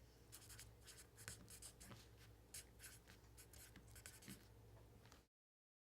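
Faint scratching strokes, like something being scraped or scribbled by hand, over a low room hum; it cuts off to dead silence a little before the end.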